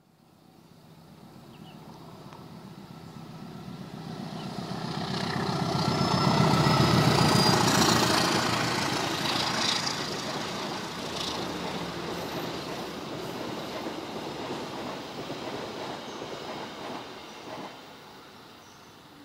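Diesel-electric locomotive hauling a passenger train approaching and passing, building to its loudest about six to eight seconds in. The carriages' wheels then clatter along the rails as the sound slowly fades.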